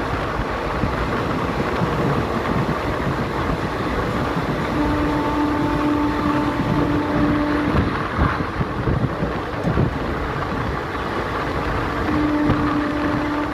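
Passenger train running along the track, heard from aboard a coach as a steady loud rumble and rattle. A held tone sounds twice, for about three seconds in the middle and again briefly near the end.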